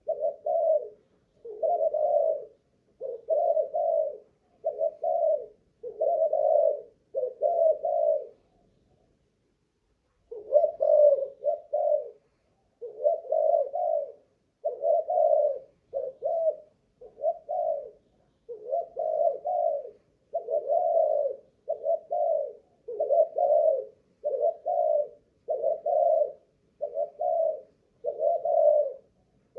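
Spotted dove of the Malaysian cooing strain cooing over and over in a long, unbroken string of low coo phrases, with one pause of about two seconds partway through. Keepers prize this kind of staying power in a cooing bird.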